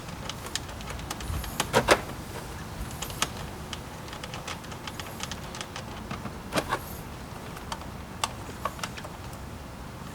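Scattered clicks and knocks of hands working the plastic air-box cover of the engine's air filter housing, bolts already loosened. The louder knocks come about two seconds in and again past the middle.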